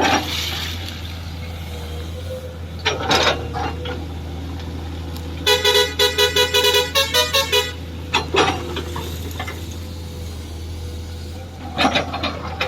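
Heavy diesel engines run steadily at a work site. In the middle, a truck's multi-tone musical horn sounds a quick run of short toots lasting about two seconds, changing pitch partway through.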